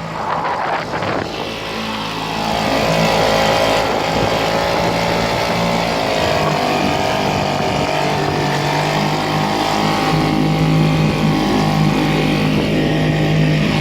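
An engine running steadily, a low hum with a higher tone above it that wavers slightly in pitch.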